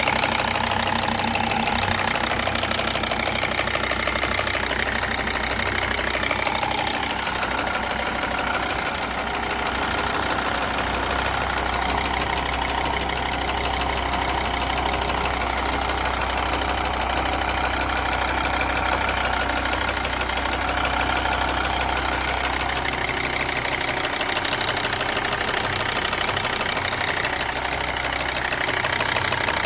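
Mercedes OM612 2.7-litre five-cylinder diesel running steadily, with a ticking and, behind the ticking, a banging noise. The owner takes the ticking for normal in this engine and the banging for a fault.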